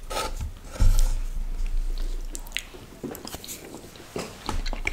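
Close-up mouth sounds of chewing soft moong dal halwa, with small clicks of wooden forks, and a low thump about a second in.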